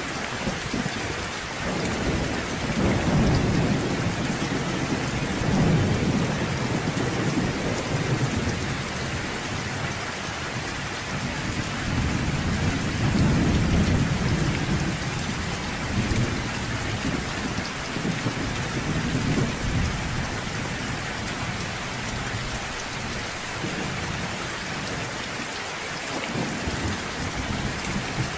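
Steady rain falling, with rolling thunder rumbling low underneath that swells twice, about three seconds in and again around the middle, then eases off near the end.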